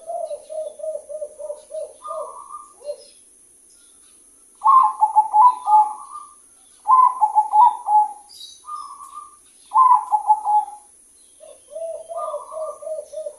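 Caged doves cooing in rolling phrases of quick repeated notes. Lower phrases open and close the stretch, and louder, higher phrases come in the middle, with short pauses between.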